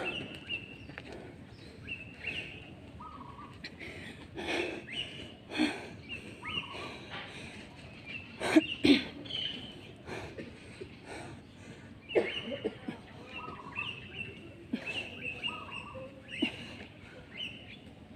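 Birds chirping, repeating short whistled calls every few seconds. Scattered sharp thumps and knocks are heard alongside, the loudest two close together about halfway through.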